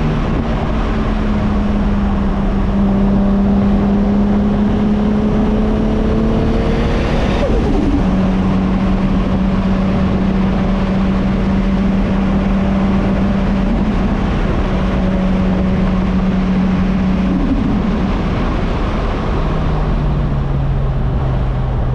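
Single-turbo Toyota Supra MK4 inline-six (Pulsar GTX3584RS turbo) pulling in gear, its note climbing for about seven seconds. It then drops sharply at a shift, with a brief burst of hiss. The engine holds a steady note for about ten seconds, then drops again near the end and settles lower.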